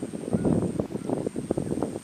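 Dense rustling and crackling, with a couple of faint bird chirps.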